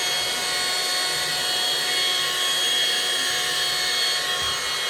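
Cordless vacuum cleaner running steadily, its motor giving a high multi-toned whine while it sucks up spilled powder.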